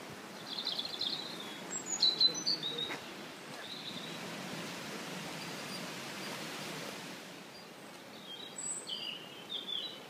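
Songbirds chirping in short, high phrases several times, busiest near the end, over a steady background hiss.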